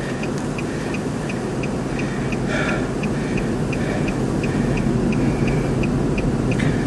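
Wind noise and a parked car's steady low rumble, with a car's warning chime repeating as short, evenly spaced high ticks about three times a second.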